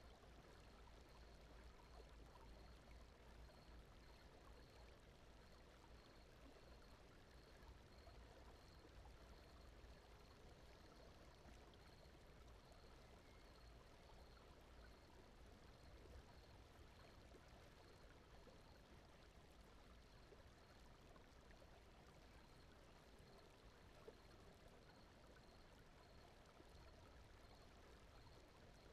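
Very faint, steady brown noise: a low, even rush like a distant stream, with a faint high ticking about twice a second.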